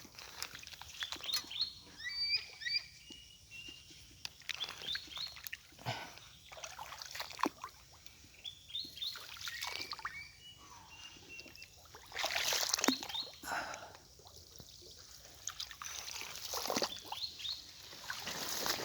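Small birds chirping in short repeated calls, with irregular splashing and rustling noises; the loudest burst of noise comes about two-thirds of the way through.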